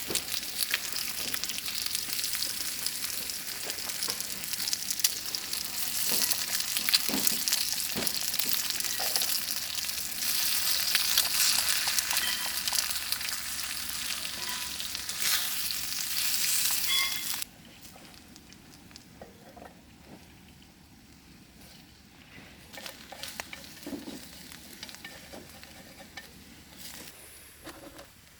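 Food sizzling and crackling in a hot pan, which stops abruptly about two-thirds of the way in; after that it is quiet but for a few faint ticks and knocks.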